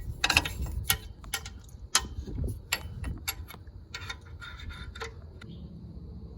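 Sharp, irregular metallic clicks of a socket wrench being fitted and worked on an engine oil drain plug, a few clicks a second.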